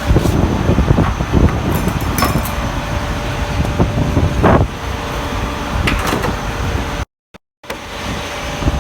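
Heavy truck running, a dense low rumble with scattered knocks and clanks; the sound drops out for about half a second near the end.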